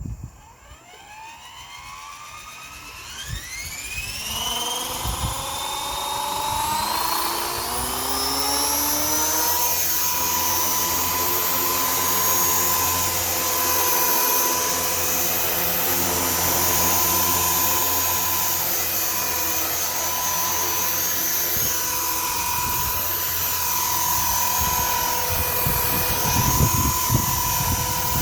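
Align T-Rex 450 electric RC helicopter spooling up. The motor and gear whine rises steadily in pitch over the first eight seconds or so, then holds at a steady pitch with the rotor running at speed.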